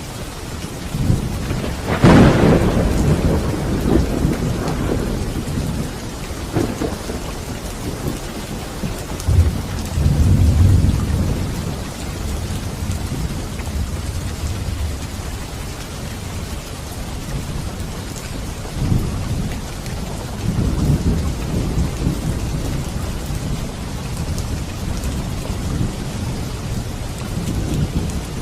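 Steady heavy rain during a thunderstorm, with a sharp thunderclap about two seconds in that rolls away, and deep rumbles of thunder around the middle and again later.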